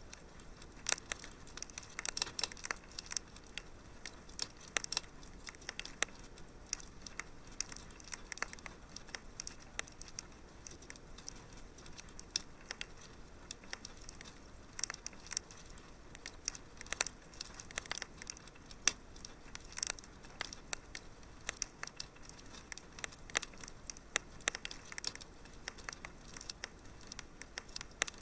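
Fireplace fire crackling, with frequent irregular small pops and snaps over a soft hiss.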